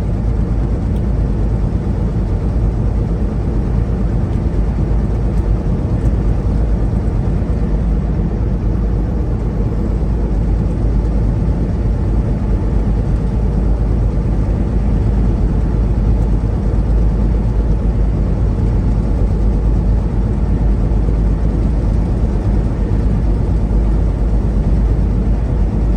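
Steady low rumble of a semi-truck's engine and road noise inside the cab while driving, with no change through the stretch.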